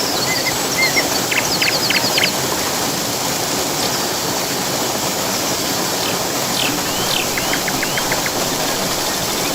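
Steady rush of a waterfall or fast-flowing river, with birds calling over it: short chirps and quick trills of repeated notes, a cluster about a second in and another past the middle.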